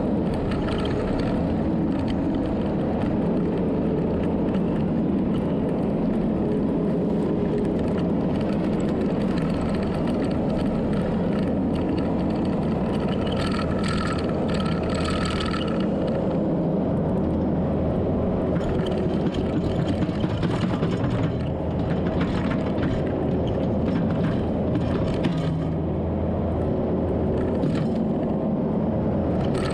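Diesel engine of a heavy earthmoving machine running steadily at work, with a brief brighter, higher-pitched noise about halfway through.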